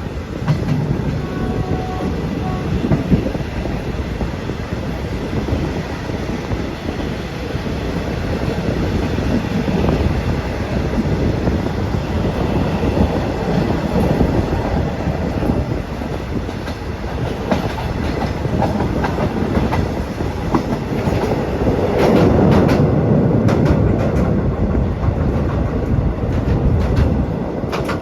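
Thai passenger train rolling by as it pulls out of a station: a steady rumble with the clickety-clack of wheels over rail joints. It grows louder about two-thirds of the way through, with sharper clicks near the end.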